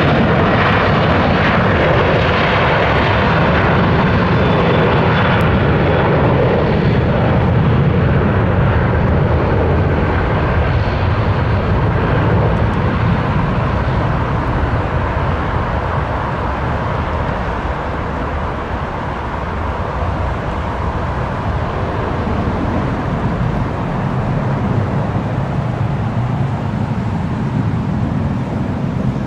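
Airliner engine noise from an aircraft on or near the runway, a steady roar with a faint whine in the first half that eases off gradually as the aircraft moves away.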